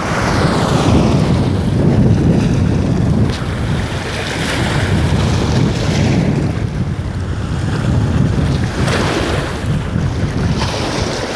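Seaside wind gusting on the microphone over the sound of sea waves, a loud rumbling rush that swells and eases every few seconds.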